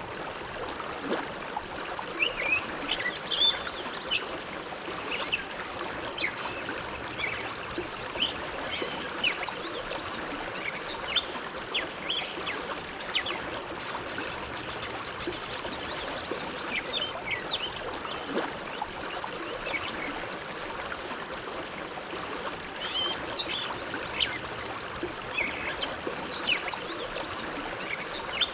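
Bow River flowing: a steady rush of water, with many short high splashes and gurgles scattered over it.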